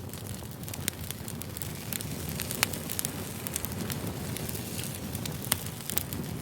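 Wood fire burning with a steady low rumble and irregular sharp crackles and pops, a few louder snaps scattered through.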